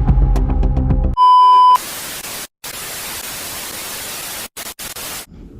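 Background music cuts off about a second in, replaced by a loud, steady high-pitched beep lasting about half a second. Then comes an even hiss of TV-style static, quieter than the beep, that drops out briefly a few times and stops near the end.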